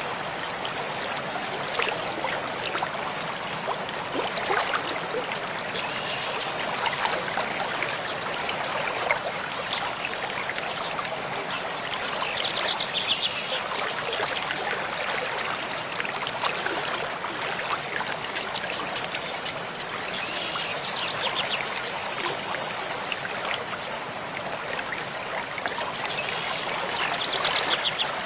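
Mountain stream flowing steadily over rocks. A bird sings three short trills above the water, about twelve, twenty and twenty-seven seconds in.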